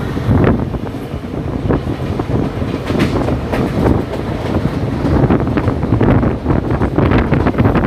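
Express passenger train running at speed, heard from the coach: its wheels clatter over the rails in irregular clacks under a constant rumble, with wind buffeting the microphone.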